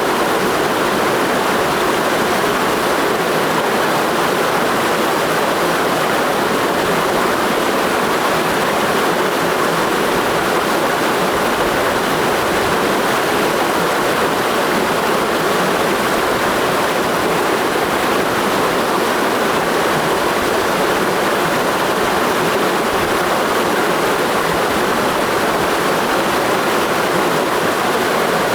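Mountain stream rushing over rocks, a steady, unbroken rush of water.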